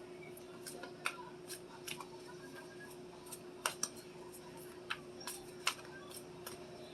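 Tarot cards being handled, giving light, irregular clicks and taps, about a dozen scattered through the stretch, over a faint steady hum.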